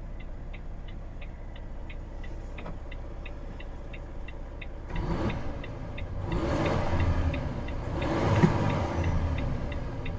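Volvo FH 460 truck's 13-litre six-cylinder diesel starting about five seconds in, then revved twice. A flasher ticks steadily, about three times a second, throughout.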